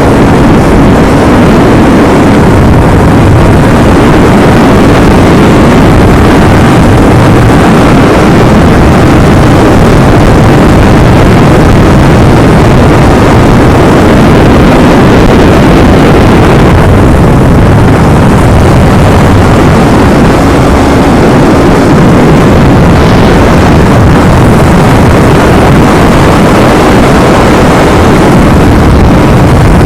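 Yamaha R25's parallel-twin engine running through its stock exhaust at a steady cruise, loud and unchanging, mixed with wind rush on the microphone.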